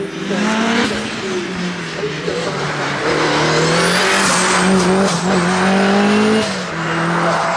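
Mitsubishi Evo 8 hillclimb car's turbocharged 2-litre four-cylinder engine under hard acceleration. Its revs climb and fall back several times as it changes gear.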